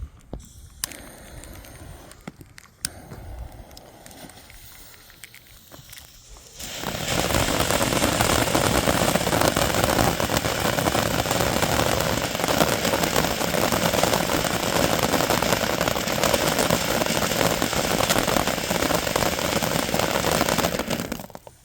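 Small firework fountain (a 10-gram Vulcan fountain) catching after a few quiet seconds, then spraying with a loud, steady crackling hiss for about fourteen seconds before cutting off abruptly near the end.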